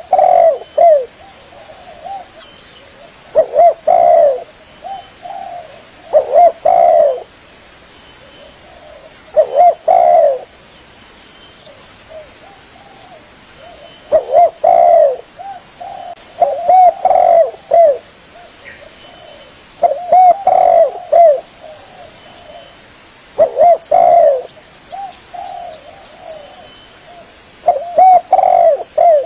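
Spotted dove (tekukur) cooing: short phrases of a few coo notes, repeated about every two to three seconds, sometimes two close together.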